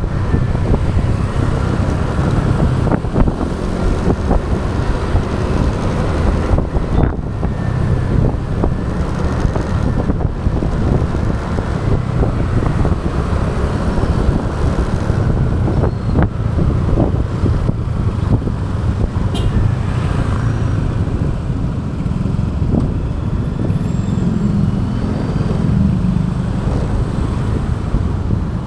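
A motorbike riding through city traffic, heard from its own camera: a steady, heavy rumble of engine, road and wind noise, with other traffic mixed in.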